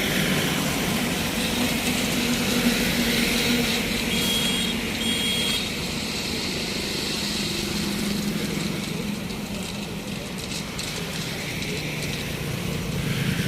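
A motor engine running steadily, with two short high beeps about four and five seconds in.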